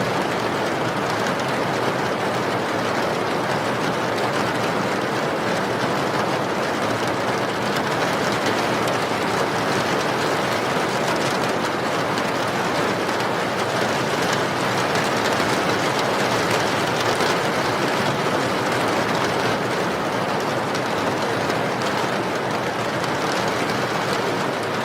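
Steady rain: an even, unbroken rushing noise that does not change.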